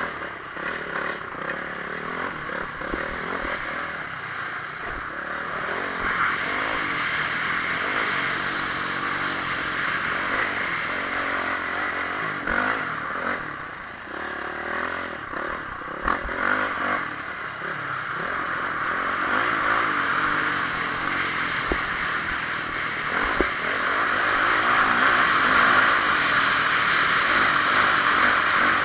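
Honda CRF450R motocross bike's 450 cc four-stroke single-cylinder engine revving up and down under hard riding, with a heavy rushing noise over it and occasional knocks and rattles from the chassis.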